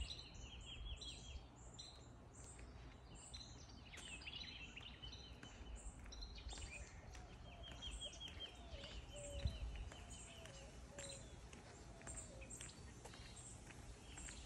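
Faint outdoor ambience with birds calling: several bouts of rapid, repeated high chirping notes, and a lower wavering call in the middle, over a low background rumble.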